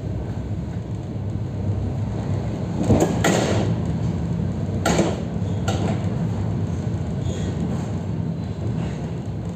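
Interior of an EP3D electric multiple unit under way: a steady low rumble from the running train, with a few sharp knocks about three, five and nearly six seconds in.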